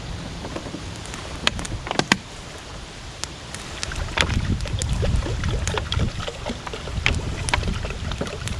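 Wind rumbling on the microphone, heavier about halfway through, with a dozen or so irregular sharp clicks and knocks.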